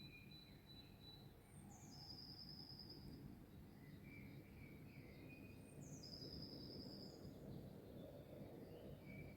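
Songbirds singing faintly outdoors: one bird twice gives a phrase of high notes sliding down into a steady, even trill about a second long, while another bird adds short lower chirps. A steady low background rumble runs underneath.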